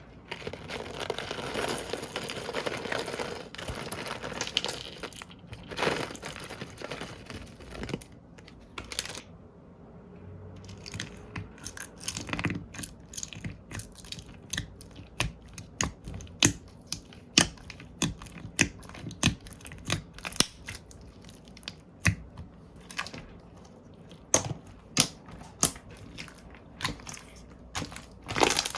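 Slime being worked by hand close to the microphone: a dense stretch of crackling for several seconds, then a run of sharp separate pops as it is pressed and squished.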